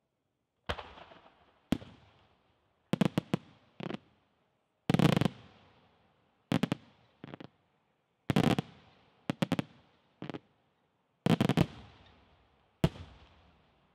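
Aerial firework shells bursting overhead: about a dozen sharp reports, several coming in quick pairs or triplets, each trailing off in a rolling echo.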